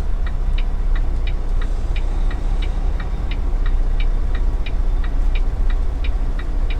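Semi-truck's diesel engine running steadily, heard from inside the cab, with a flasher relay ticking evenly about three times a second.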